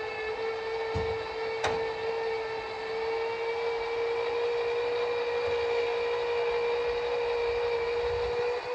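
Small electric motor running under load with a steady, high whine, joined by a couple of brief knocks about a second and a half in. It is being run hard enough that it needs resting after about a minute.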